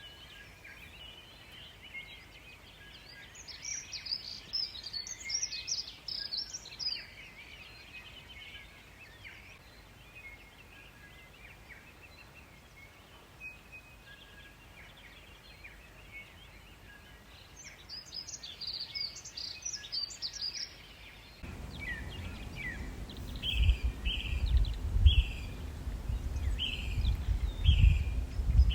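Songbirds in woodland: two bursts of high trilling song over steady lighter chirping. About three-quarters of the way through, the ambience changes abruptly: a gusty low rumble comes in under a bird repeating a short falling note about once a second.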